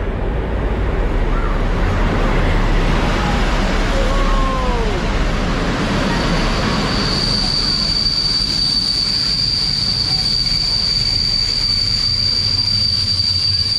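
Train running on the rails with a steady rumble. About halfway through, a steady high-pitched wheel squeal sets in and holds.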